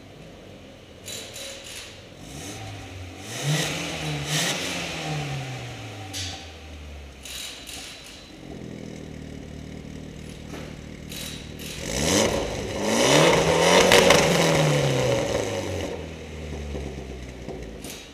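Mitsubishi Evolution X's turbocharged 2.0-litre four-cylinder idling through an aftermarket catback exhaust with a Varex muffler, blipped twice: a short rev about three seconds in, then a longer, louder rev about twelve seconds in, each falling back to idle.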